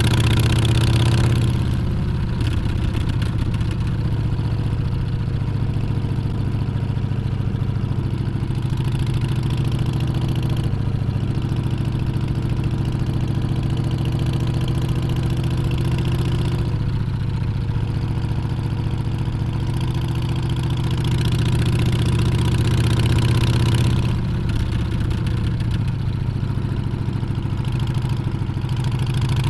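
Harley-Davidson Street Bob 114's Milwaukee-Eight V-twin running steadily while riding, the engine note easing off about two seconds in and again a little before the end. Wind rush rises and falls over the engine.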